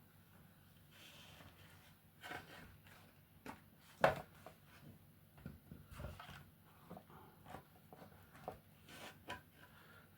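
Quiet handling sounds of small parts being worked by hand: scattered small clicks, taps and rubs, with one sharper knock about four seconds in.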